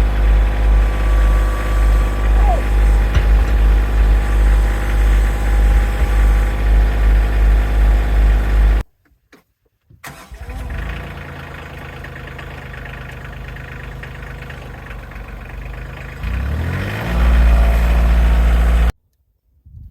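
Tractor engine running with a strong, pulsing low beat. After a brief break, an engine runs more quietly and then revs up a little past the three-quarter mark, ending abruptly.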